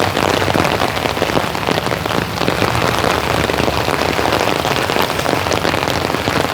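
Steady rain falling close by, a dense, even patter of drops.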